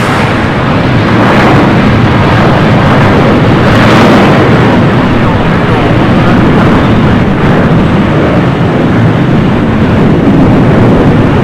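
Loud, steady noise of a jet airliner's engines, a little stronger about four seconds in.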